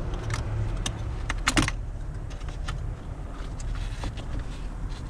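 A few sharp clicks and light rattles over a low steady hum.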